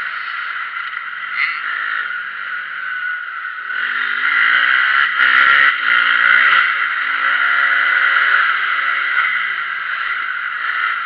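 Motocross motorcycle engines revving up and down as bikes ride the track, growing loudest about halfway through as a bike comes closer, then falling back.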